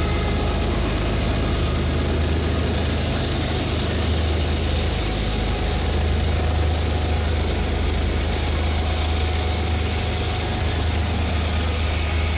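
Diesel freight locomotive engines running, a steady low drone with a constant hum.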